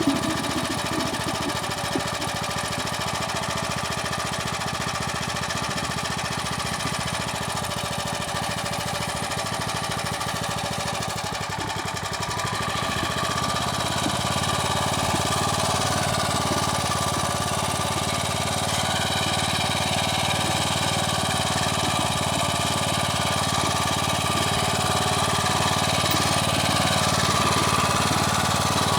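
Motor Sich walk-behind tractor's engine running steadily while working the soil during potato planting. Its sound grows a little louder and fuller about halfway through.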